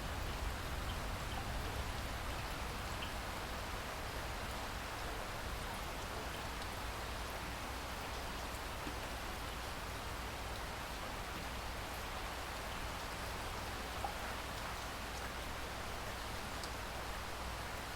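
Steady rain falling, an even hiss with scattered drop ticks over a low rumble, and one sharper drop tick about fourteen seconds in.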